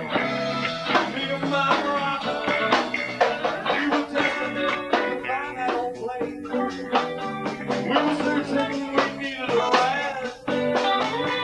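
A live band of guitar, bass guitar and drums playing a tune, with steady drum hits under the guitar.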